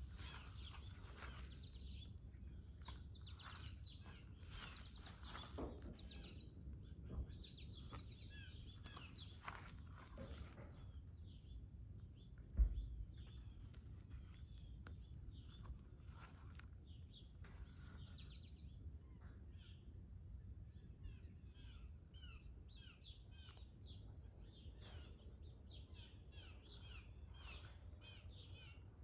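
Songbirds chirping and singing in many short calls over a steady low rumble, with a single low thump about halfway through.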